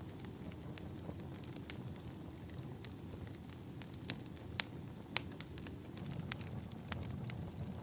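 Wood fire crackling: irregular sharp pops over a low, steady rumble of flames.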